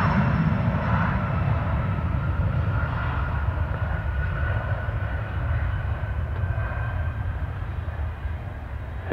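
Business jet's engines running at takeoff power, a steady roar with a faint high whine that slowly fades as the jet departs.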